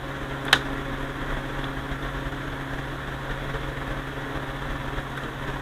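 Steady hum and hiss, with a single sharp click about half a second in.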